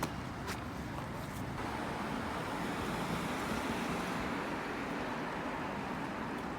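Steady rushing background noise with no speech, broken by a few brief clicks in the first second and a half. The noise becomes fuller about a second and a half in.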